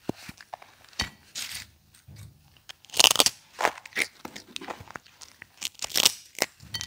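Baby monkey biting and chewing crunchy prawn-cracker snacks, close to the microphone: irregular crisp crunches, loudest about three seconds in and again near six seconds.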